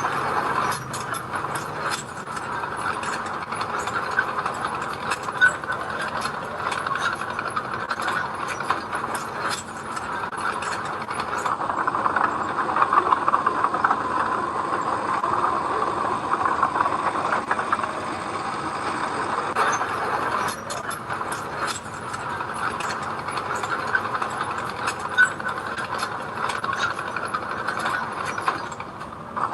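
Mini bulldozer working gravel: a steady engine drone with rapid metallic clatter from its steel tracks and scraping stones.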